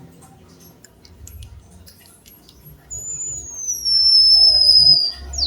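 White-headed munia singing: a few faint clicks, then about three seconds in a long, thin, high whistle that slides slowly downward and ends in a quick steep downward sweep.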